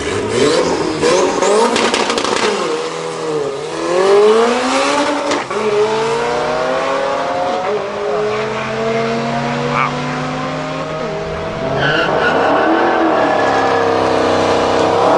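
Drift car engine revving hard, its pitch dipping and climbing with each throttle change and holding steady for several seconds in the middle, with tires squealing in the first couple of seconds.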